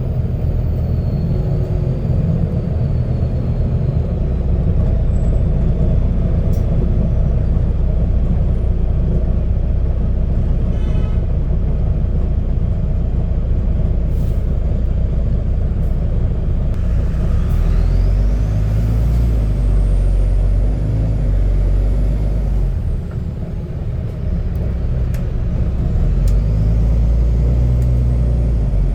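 Diesel engine of a Volvo B9TL double-decker bus running under way, heard from inside the bus: a loud, deep rumble from a burst exhaust. A faint rising whine comes in about two thirds of the way through, and the rumble briefly eases a little later.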